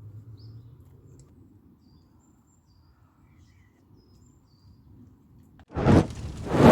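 Faint bird chirps over a low, steady rumble outdoors. Near the end a sudden loud burst of noise cuts in and swells twice.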